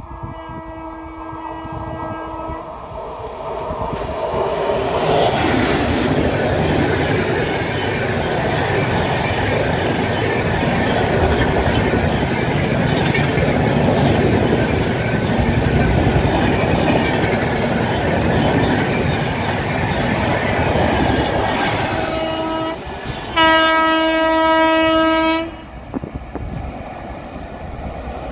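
Locomotive horn sounds for about two seconds, then a train passes close by with a steady rush and clatter of wheels on the rails for about fifteen seconds. Near the end the horn sounds again: a short toot, then a longer blast of about two seconds.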